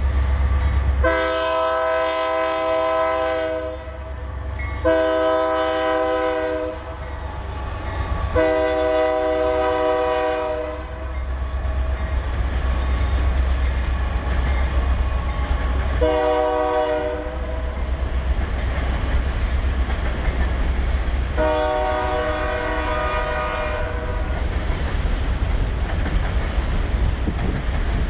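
Diesel locomotive's multi-note air horn sounding five blasts, three close together and then two more spaced apart, over the steady low rumble of a passing train.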